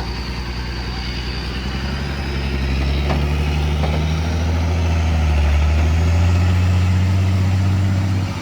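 Heavy truck's diesel engine running steadily, growing louder about a third of the way in and staying loud.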